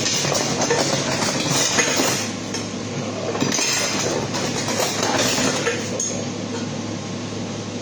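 Rummaging through a box of kitchen things: items clatter and clink irregularly against each other over a steady low hum.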